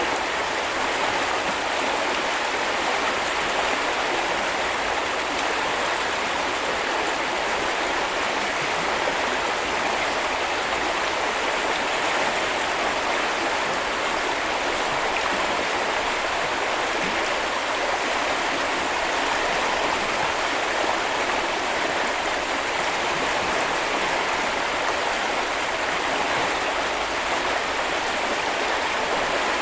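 Small river or brook flowing steadily over stones, a constant rushing babble of water.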